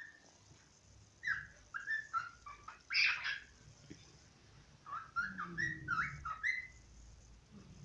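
Cockatiel singing: short whistled notes that slide up and down in quick phrases, in two runs with a pause between, and one harsher, raspier note about three seconds in.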